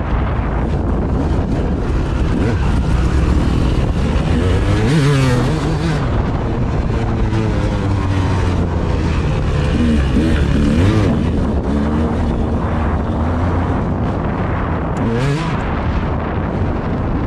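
A vehicle engine revving up and down while riding, its pitch rising and falling several times, under heavy low wind rumble on the microphone.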